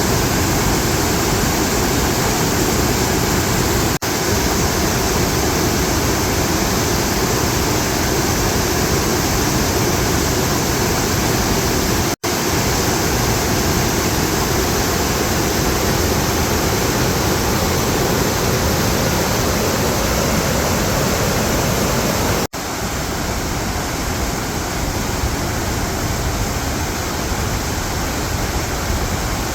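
Steady rush of water pouring over Douglas Falls. It cuts out for an instant about twelve and twenty-two seconds in and is a little quieter after the second break.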